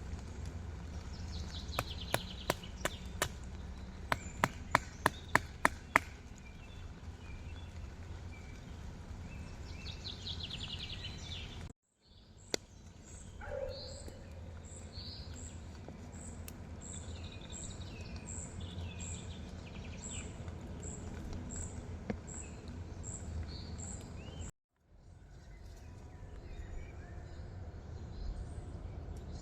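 Outdoor ambience of a steady low rumble with birds chirping. About two seconds in come two quick runs of sharp knocks, about a dozen in all at roughly three a second. The sound drops out briefly twice.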